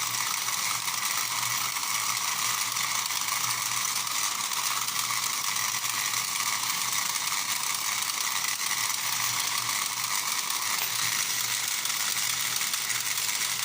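Toy horse-racing game's electric motor and gear train running, a steady mechanical ratcheting clatter over a low hum as the horses are driven along the track. The toy has just been repaired.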